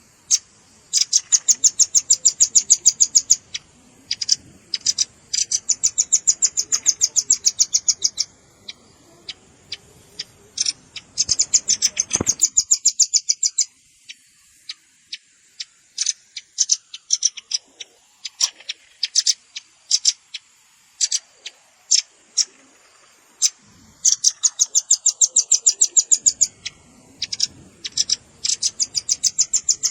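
Velvet-fronted nuthatch calling: rapid trills of sharp, high chip notes, about ten a second, in bursts of two seconds or so, with single chips scattered between the bursts.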